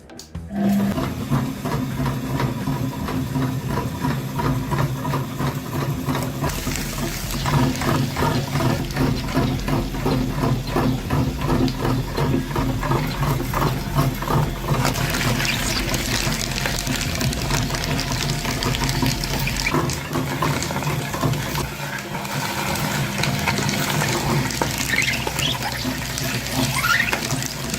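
A motor runs steadily with a fast pulsing hum. About halfway through, water starts splashing and pouring over it.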